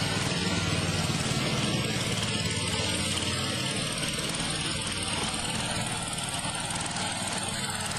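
Tractor engines running steadily, a low continuous drone with a rough noisy edge.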